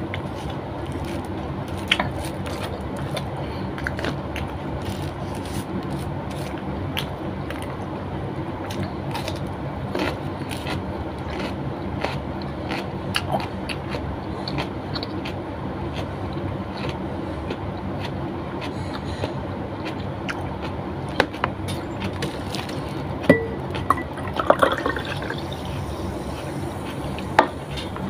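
Close-up eating sounds: wet chewing and mouth smacks with scattered small clicks and taps as food is picked up by hand, a few sharper ones near the end, over a steady background hum.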